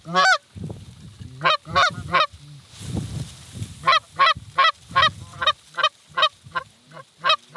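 Goose honking: short, sharp honks and clucks in quick runs of several at a time, with brief gaps between runs.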